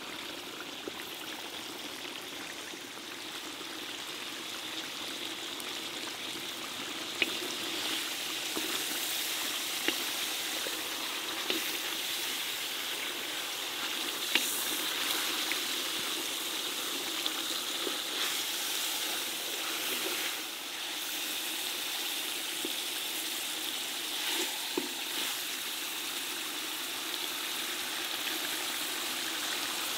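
Whole chickens frying in hot oil and masala in a large iron kadai: a steady sizzle that builds over the first several seconds and then holds, with occasional sharp clicks from spattering or the spatula.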